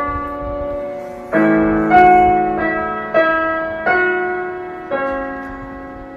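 Slow piano music: chords struck about once every second or less, each left to ring and fade.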